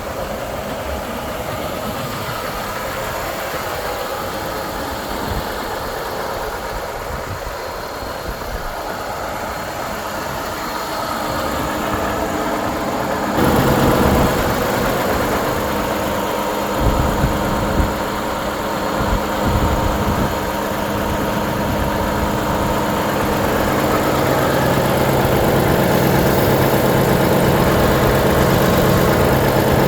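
Volvo FH 500's 13-litre six-cylinder diesel engine running at idle. About 13 seconds in it gets suddenly louder, with a few short swells a few seconds later, then it runs louder and steadier near the end.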